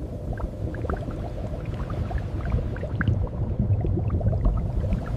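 Carbonated water bubbling and churning: a steady low rumble with many small scattered pops.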